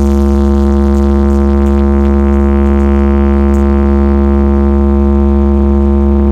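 Blizzard Audio 'horeg' sound system blasting a loud, unchanging deep bass tone with a steady droning note held above it.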